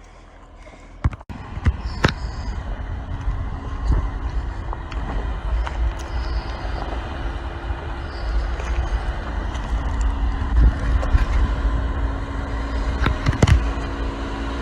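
Jeep crawling over an off-road trail, its engine and drivetrain giving a steady low rumble that comes up suddenly about a second in, with scattered sharp knocks and clunks.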